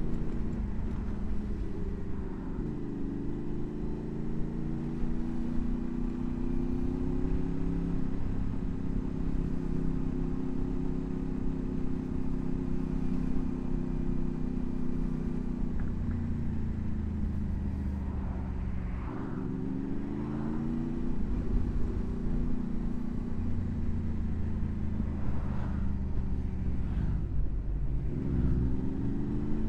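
Honda VFR800's V4 engine under way, holding a steady note for stretches and then dropping and climbing in pitch several times as the rider rolls off and accelerates through the gears, over a constant low rumble of wind and road.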